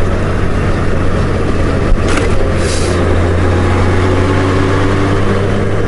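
Honda Gold Wing motorcycle engine running at low speed, a steady low hum, with a brief hiss about two seconds in.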